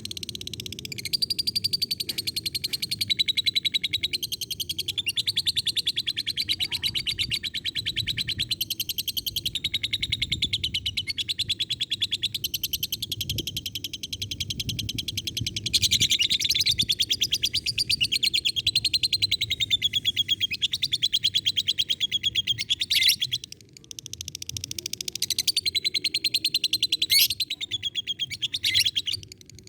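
Lovebird giving a long 'ngekek': a continuous, very fast-pulsed chattering trill, almost unbroken, with a short break about three quarters of the way through and another near the end.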